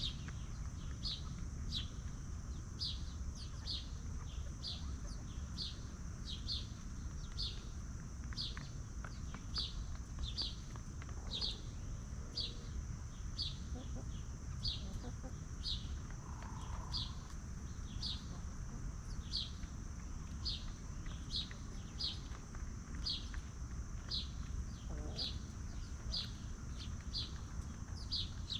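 A small bird calling over and over, a short high chirp that drops in pitch, repeated about one and a half times a second, over a steady high-pitched drone and a low rumble.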